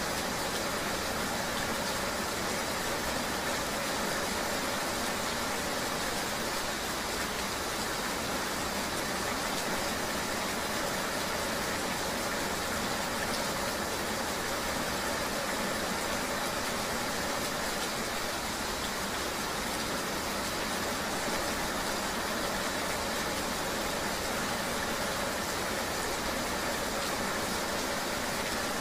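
Steady rain mixed with a vehicle's engine and road noise, a continuous even hiss that does not change.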